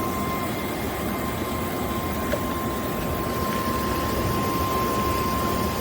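Hot tub pump motor running with a steady whine over a low rumble, which the listener takes for a bearing going out.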